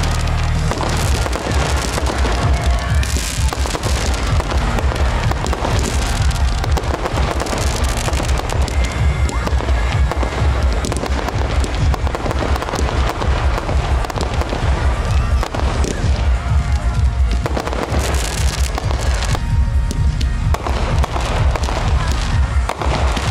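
A fireworks display: bursts and booms following one another with crackling, with music playing along.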